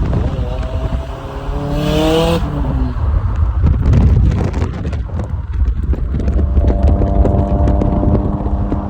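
Car engine revving hard, its pitch rising steeply for about two seconds and ending in a short sharp hiss. A rough, crackling stretch follows, and from about six and a half seconds the engine settles into a steady drone.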